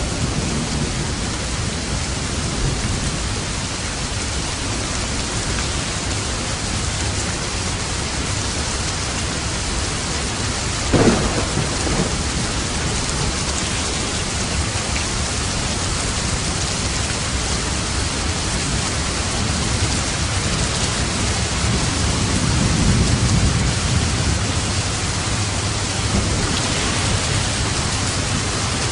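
Steady heavy rain falling in a thunderstorm, with a sudden sharp crack about a third of the way in and low thunder rumbling louder later on.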